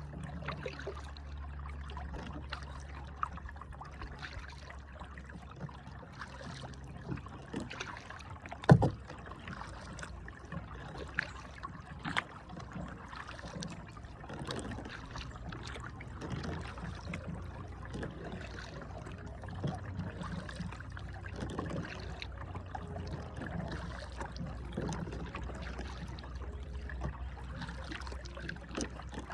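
Kayak being paddled, water trickling and splashing off the paddle, with scattered small knocks and one loud sharp knock about nine seconds in.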